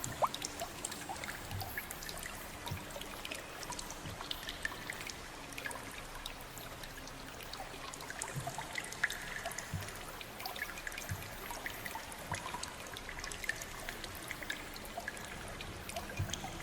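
Water trickling, with many small drips and splashes scattered irregularly over a steady wash.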